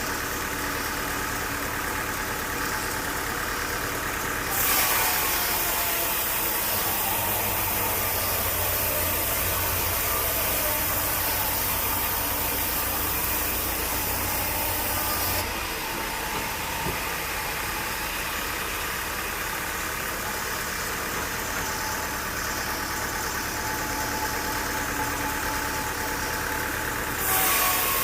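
Engine-driven sawmill running steadily. About four and a half seconds in, the saw blade enters the log and a loud cutting hiss rises over the engine, with a brief falling tone as it takes the load. The cut stops about ten seconds later, and another cut begins near the end.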